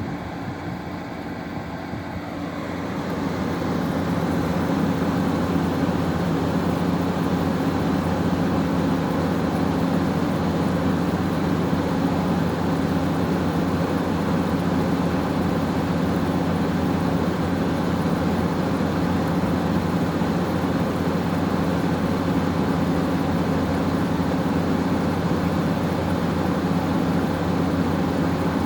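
LG window air conditioner running: a steady low hum with the rush of the fan blowing air. It grows louder over the first few seconds, then holds steady.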